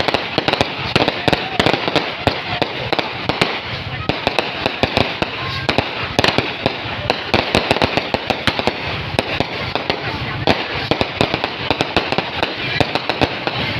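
Fireworks going off in a dense, continuous barrage of sharp cracks and pops, several a second, with voices faintly underneath.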